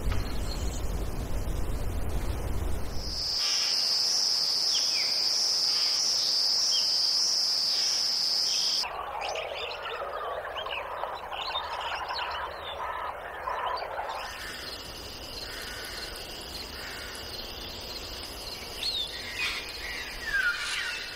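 Wild nature ambience: after a low rumble, a steady high-pitched insect trill with scattered bird chirps sets in about three seconds in. Around the middle a dense chorus of short chirps and calls takes over, then fades back to a fainter insect trill with bird chirps near the end.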